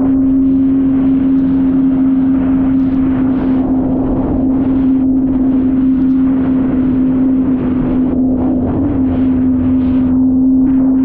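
Jet ski engine running at a steady speed, a constant hum with a rough rushing noise over it.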